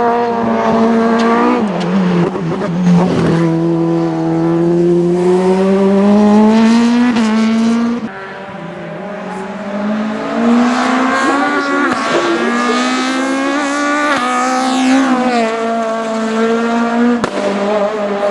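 Race car engine at full throttle on a hill climb, its pitch climbing and then dropping sharply at each gear change, several times over. There is a brief lift-off about eight seconds in before it pulls hard again.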